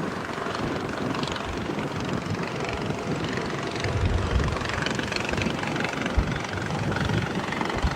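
Steady rushing drone of an aircraft, with short low thumps about six seconds in and again near the end.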